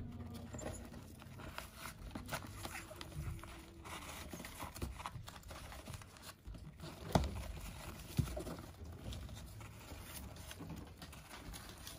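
Faint rustling and scattered small clicks from African grey parrot chicks moving about, with two louder knocks a little past the middle.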